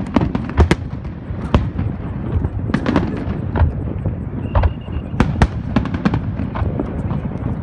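Aerial fireworks shells bursting in an irregular string of sharp bangs, one after another, over a steady low rumble.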